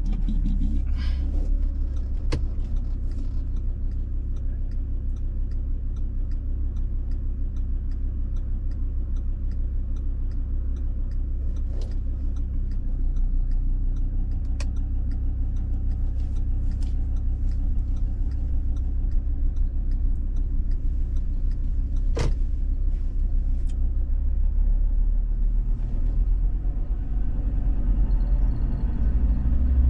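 Steady low rumble of a moving road vehicle's engine and tyres, with a few faint ticks and one sharp click about two-thirds of the way through.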